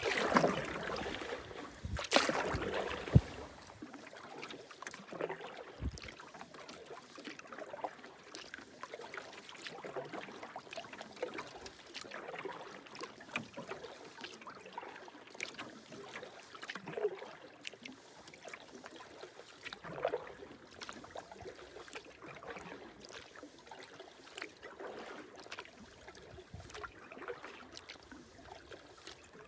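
Canoe paddling: the paddle dipping and pulling through calm water, with water trickling off the blade between strokes. Louder stirring of water comes in the first few seconds, then a sharp knock about three seconds in.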